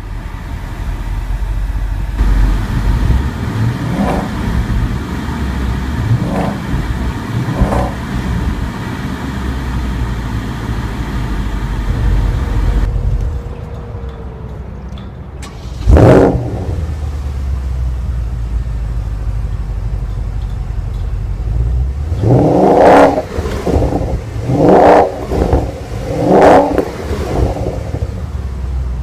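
2014 Porsche Panamera GTS's 4.8-litre V8 running just after start-up, with several throttle blips. The idle settles lower about 13 seconds in, then there is one sharp rev about 16 seconds in and three quick revs near the end.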